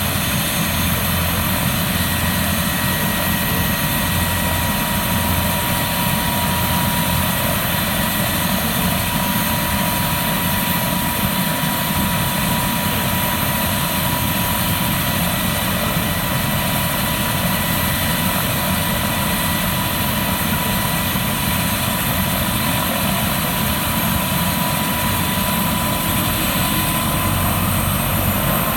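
Helicopter running steadily: a dense, even engine and rotor noise with a steady high whine that climbs slightly in pitch near the end.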